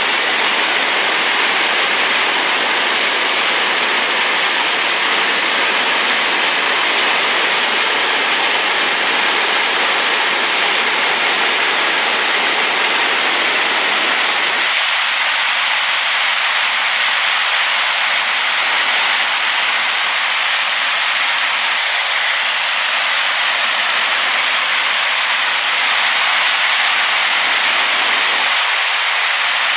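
Rain-swollen waterfall pouring heavily, a loud, steady rushing roar of falling water. Its deepest rumble thins out about halfway through.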